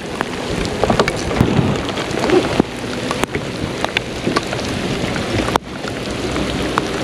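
Heavy rain coming down hard on a boat and the river surface: a steady hiss with scattered sharp taps of drops striking close by.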